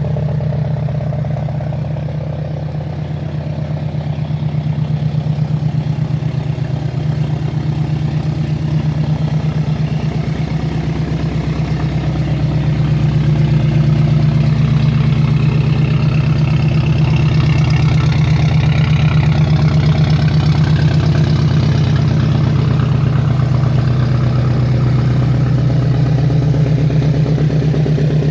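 Porsche 718 Boxster with a full stainless-steel exhaust idling, a steady low exhaust note that grows a little louder about twelve seconds in.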